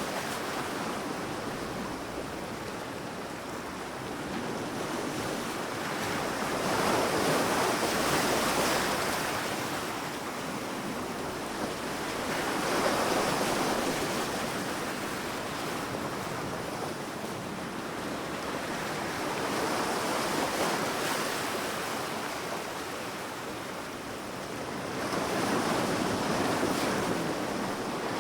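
Sea waves breaking and washing up a sandy beach. The surf swells and falls back about four times, a wave every six seconds or so.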